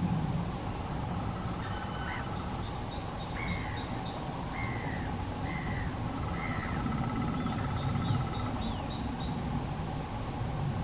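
Wild birds calling in woodland. About two seconds in comes a series of four or five arched, rising-and-falling calls, roughly a second apart. Twice, a quicker run of short high notes sounds over them, all above a low steady rumble.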